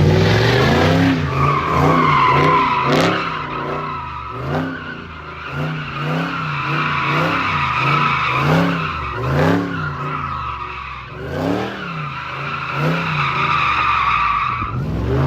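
A car spinning its tires at a car meet takeover: a steady tire squeal starts about a second in, over the engine's revs rising and falling in quick repeated swells.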